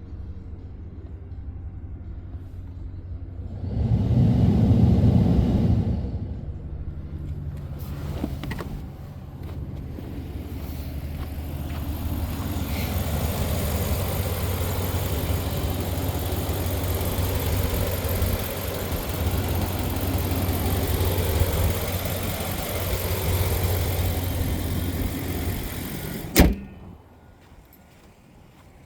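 A 2014 Dodge Ram 1500 pickup's engine running with a steady low hum and one rev of about two seconds, about four seconds in. A single sharp knock comes near the end, after which the sound drops away.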